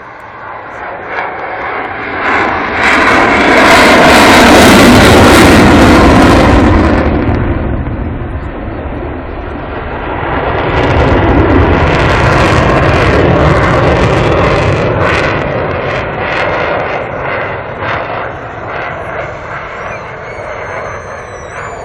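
F-16 fighter jet's engine at full display power, very loud as the jet sweeps past. It swells to a peak a few seconds in, eases, swells again, then tapers off with a crackling rumble.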